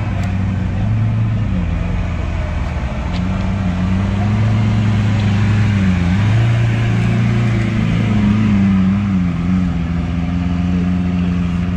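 A car engine running at low revs, a steady low note whose pitch drifts slightly up and down.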